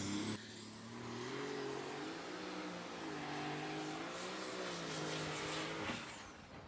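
Alcohol-burning super stock pulling tractor engine at full power under load, its pitch wavering, with a high turbocharger whine climbing slowly. About six seconds in, the sound cuts off abruptly after a short sharp peak: the engine has let go, scattering metal parts on the track.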